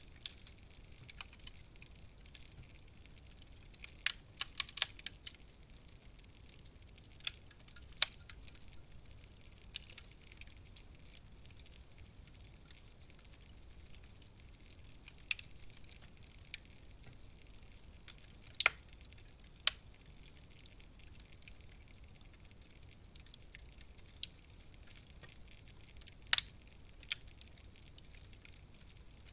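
Wood fire in a fireplace crackling: sparse, sharp pops and snaps over a faint steady hiss, with a quick run of pops about four seconds in and single louder snaps scattered through the rest.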